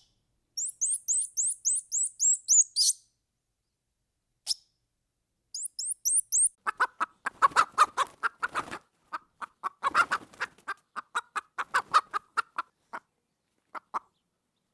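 Bird calls: a run of high, quick sweeping chirps, a pause, a second short run of chirps, then a long rapid series of lower, rattling notes that thins out near the end.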